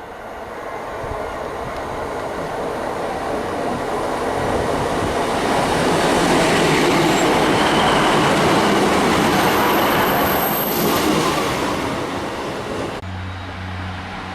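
A train running past on the rails, its rumble and wheel noise swelling to a peak midway and then fading. Near the end it changes abruptly to a steady low hum.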